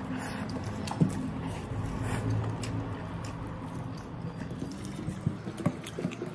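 Close-up eating sounds: chewing and mouth noises as a handful of rice is eaten by hand, with soft clicks and fingers squishing food in a metal plate near the end. A steady low hum runs underneath.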